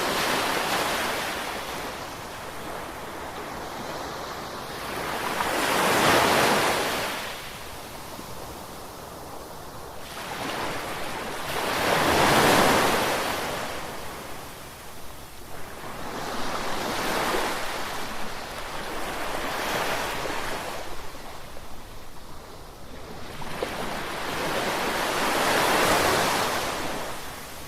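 Ocean surf, waves breaking and washing in one after another about every five or six seconds, each swell of rushing noise rising and fading away.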